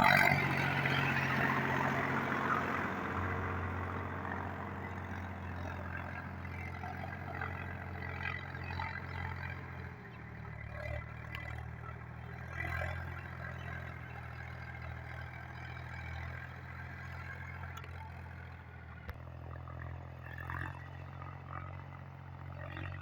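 Tractor engine running with a steady low drone, loudest at the start and fading over the first few seconds before settling to an even level.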